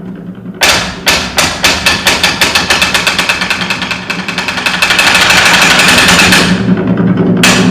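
Hyoshigi, the wooden clappers of the kabuki stage, struck in an accelerating run that speeds up into a rapid roll. After a short break comes one final sharp clack, the pattern that closes a performance as the curtain is drawn.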